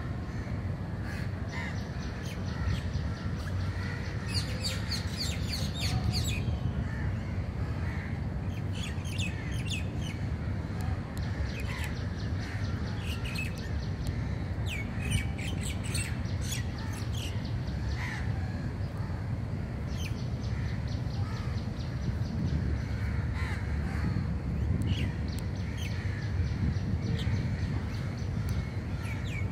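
Birds chirping and calling in quick high runs that come every few seconds, over a steady low rumble.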